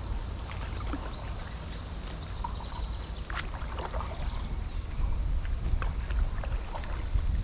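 Paddle strokes dipping and splashing in calm canal water from a stand-up paddleboard, under a steady low rumble of wind on the microphone, with small birds chirping.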